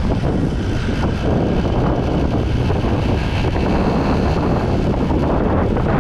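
Steady wind noise on the microphone of a motorbike in motion, with the ride's road rumble underneath.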